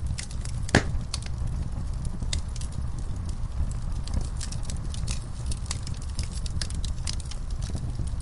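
Fireplace fire crackling, with a steady low rumble and frequent sharp snaps, one loud pop about a second in.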